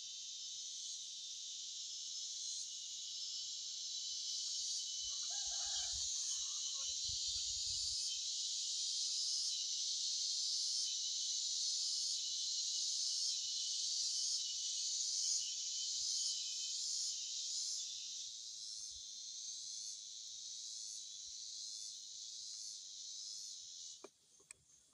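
A dense chorus of insects keeps up a shrill, slightly pulsing buzz that swells and then stops abruptly near the end. A brief lower call and a few low thuds come about five seconds in.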